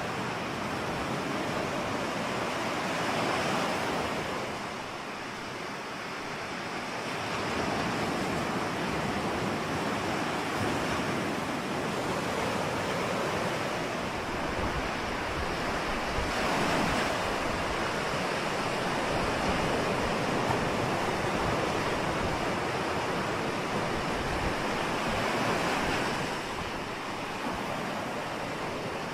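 Ocean waves breaking and washing on shore, a steady rush of surf that swells and eases in slow surges, with a lull a few seconds in and stronger breakers about halfway and again near the end.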